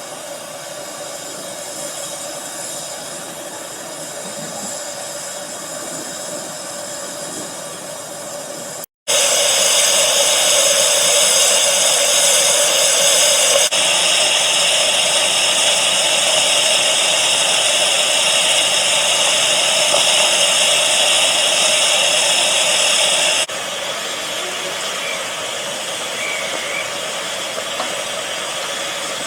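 Steady steam hiss from a 15-inch-gauge Romney, Hythe and Dymchurch Railway steam locomotive. It gets much louder after a brief break about nine seconds in, then drops back a few seconds before the end.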